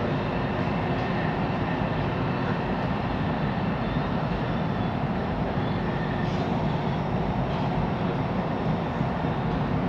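Siemens Inspiro metro train running between stations, heard from inside the car: a steady rumble of wheels and traction motors at an even level, with faint steady whine tones above it.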